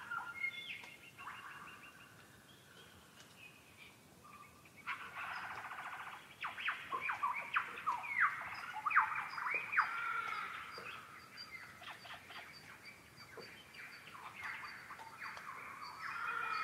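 Wild birds calling and singing, with several voices overlapping: clear whistled notes at first, a fast rattling trill about five seconds in, then a busy run of quick sweeping notes.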